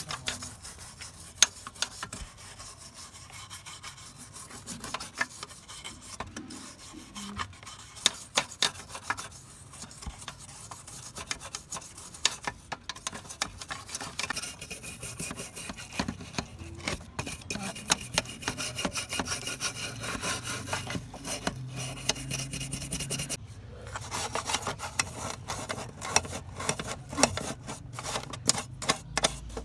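Rubbing and scraping by hand in many short, irregular strokes, coming faster near the end, as in sanding or scrubbing down a part being restored.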